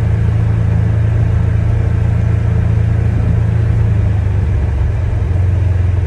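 Polaris Ranger Crew XP 1000 side-by-side's twin-cylinder engine running steadily under way, a low even drone heard from inside the enclosed cab.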